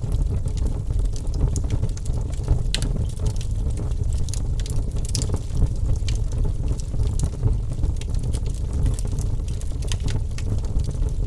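Fire crackling, with many sharp pops scattered over a steady low rumble of the flames.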